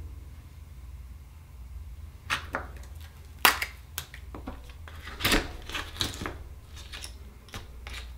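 Scattered sharp clicks and knocks of oyster shells and small tools being handled as an oyster is opened for its pearl, about five or six separate strikes.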